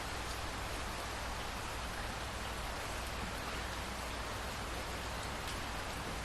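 Steady rain falling: an even hiss with a few faint drop taps and a low steady rumble underneath.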